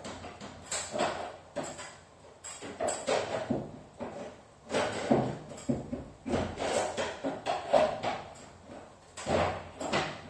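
Irregular knocking and clattering of hand tools and metal on a garage door's panels and track, in uneven bunches with short pauses between.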